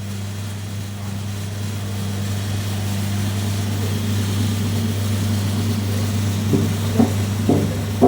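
Electric motor of a coconut milk machine running with a steady low hum, with a few short knocks near the end.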